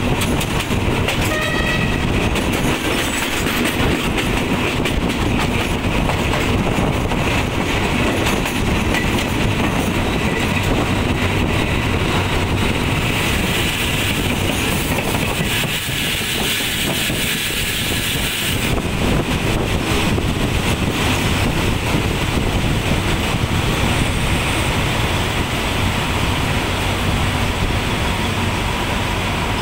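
Passenger train carriage running along the track, heard from an open window: a steady rumble of wheels on rails with clicking over the rail joints. About halfway through, a higher hiss comes up for a few seconds.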